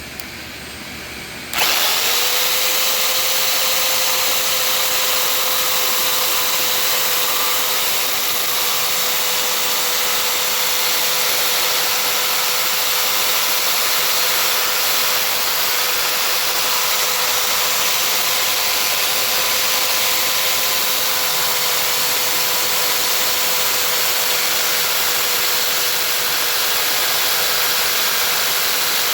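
Jigsaw with a metal-cutting blade switching on about a second and a half in, its motor whine rising briefly and then running steadily as it cuts through a layered fiberglass panel.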